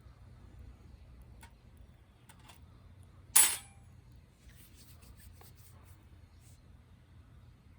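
A single sharp clink or knock about three and a half seconds in, dying away within a fraction of a second, with a few faint ticks and clicks before and after it.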